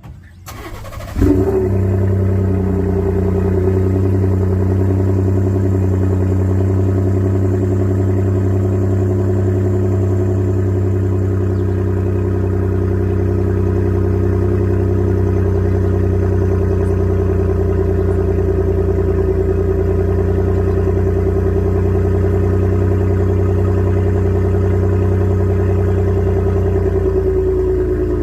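2017 Ford F-150's 3.5-litre twin-turbo EcoBoost V6 starting: a brief crank, then it catches with a sudden jump in level about a second in and settles into a steady idle. It is heard through an exhaust with the resonator removed.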